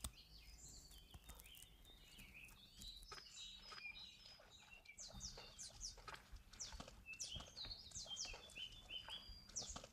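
Faint birdsong: many small birds chirping, with short high calls overlapping and growing busier from about five seconds in.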